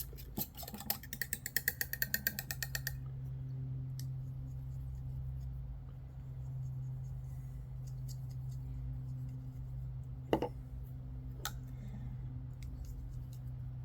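A quick, even run of sharp clicks for about three seconds, then a steady low hum with two sharp knocks near the end, as cans of PVC primer and cement are opened and handled.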